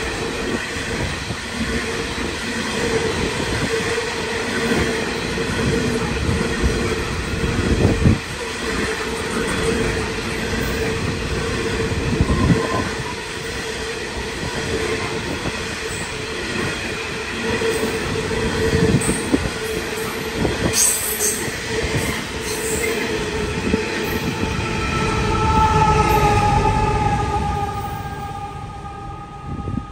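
A long freight train of hopper wagons rolls past, its wheels clattering with occasional knocks and a steady squeal. Near the end a diesel locomotive at the rear of the train goes by: its engine rumble and a pair of gliding tones swell, then fade as it moves away.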